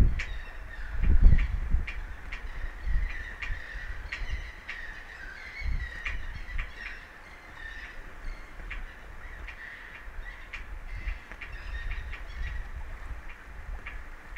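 Birds calling over and over in short, harsh calls, with low rumbling gusts of wind on the microphone that are strongest about a second in.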